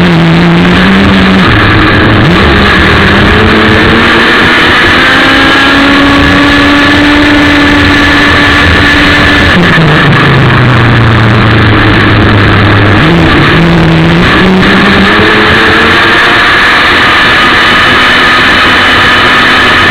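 Model speedboat's ASP 61 two-stroke glow engine running hard, very loud and close from an on-board camera. The revs climb over the first few seconds, drop sharply about ten seconds in, and climb again a few seconds later.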